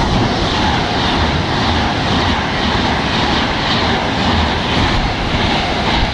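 Class 390 Pendolino electric express train running through the station at speed: a loud, steady rush of wheels on rail and air as the coaches sweep past close by.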